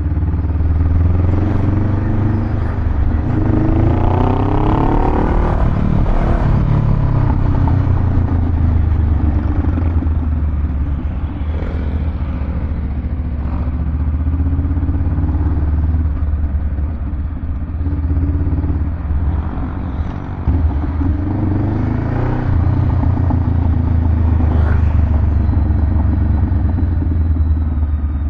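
Honda Rebel 500 parallel-twin engine running through a Vance & Hines aftermarket exhaust: a deep, bassy rumble. The engine pitch climbs briefly about 3 to 6 seconds in and again a little after 20 seconds.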